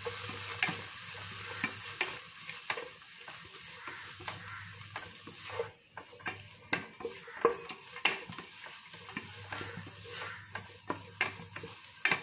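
Vegetables frying in a pan with soy, chilli and tomato sauces, sizzling steadily while a utensil stirs them in, scraping and knocking against the pan at irregular moments. A few sharper knocks come about two thirds of the way in.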